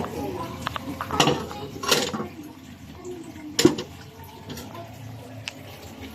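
Dishes and cutlery being handled: several sharp clinks and knocks, the loudest a little past halfway.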